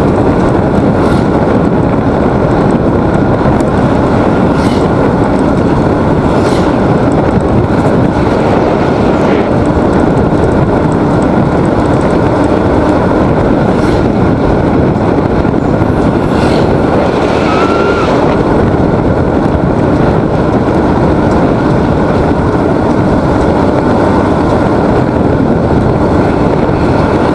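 Loud, steady wind rush over the microphone mixed with a motorcycle engine running at cruising speed, as heard from a rider on the move.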